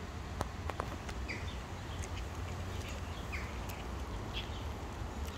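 Small birds chirping now and then, short high notes, over a steady low rumble, with a few sharp clicks under a second in.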